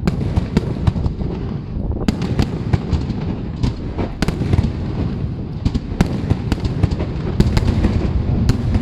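Fireworks display going off continuously: a rapid, irregular run of sharp crackling bangs over a low rumbling din of aerial shells bursting.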